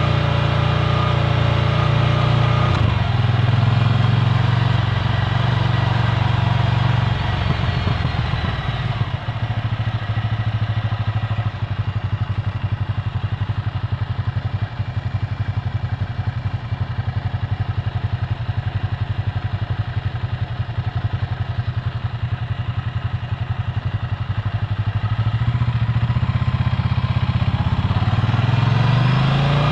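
Ducati Scrambler Full Throttle's air-cooled 803 cc L-twin running through a Termignoni exhaust. It pulls at first, drops to low revs with a loping pulse through the middle, then revs rise again near the end.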